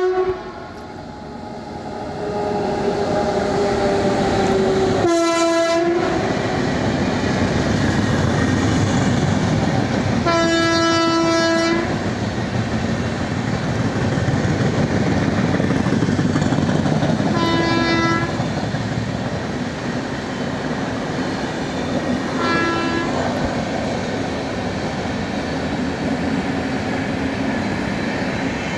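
Indian Railways express trains running past with a steady loud rumble and wheel clatter on the rails. A locomotive horn sounds at the start, its pitch sinking slightly as it goes, then four more horn blasts follow, the second held longest.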